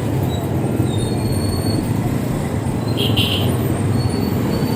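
Steady low rumble of wind and road noise on the microphone while riding an electric bike, with a brief high squeak about three seconds in.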